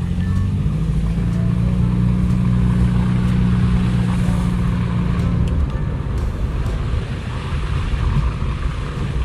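Car engine running at steady revs, a low even hum that drops away about five and a half seconds in, leaving a rougher rumble of engine and tyre noise.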